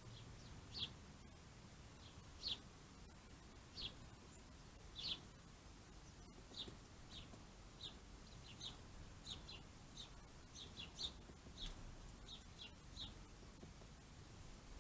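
Small bird chirping: short, high chirps, a few spaced a second or more apart, then coming faster and more often from about six seconds in.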